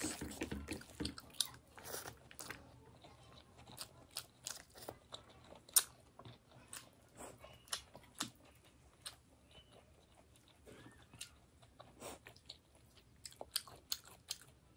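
A person chewing and eating fish curry close to the microphone: irregular sharp mouth clicks, denser and louder at the start.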